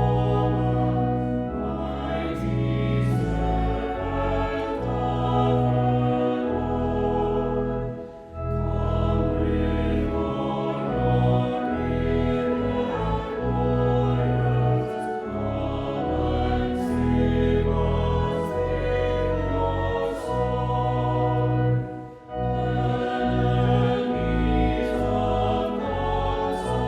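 Choir singing a slow sacred hymn over long held low notes, with two brief pauses between phrases.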